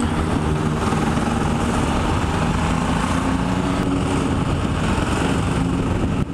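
Motorcycle engine running steadily at a nearly even pitch, with a constant rush of noise around it.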